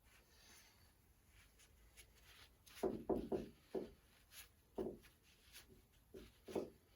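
Short knocks and rubs from a classic Mini rear radius arm being handled and its pivot shaft worked in the bearing to check for play, starting about three seconds in and coming irregularly.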